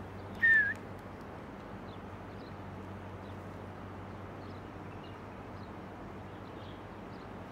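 A single short human whistle, a clear tone that dips slightly at its end, about half a second in, as a pigeon keeper whistles to his flock. Under it runs a steady low hum with faint scattered bird chirps.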